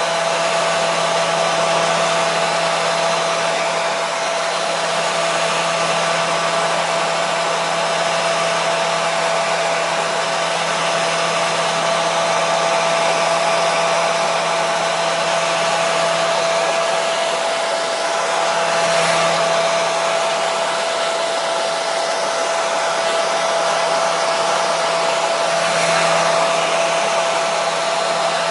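Hair dryer running steadily: a continuous blowing rush with a constant motor hum, swelling slightly twice in the second half.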